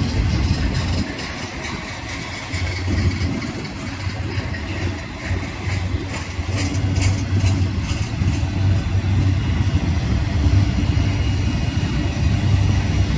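Diesel engines of GE freight locomotives running steadily with a deep throb as the train gets under way, with a few light clanks near the middle.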